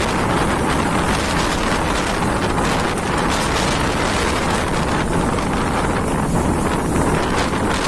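Cyclone-force wind buffeting the microphone: a loud, steady rushing noise with no let-up.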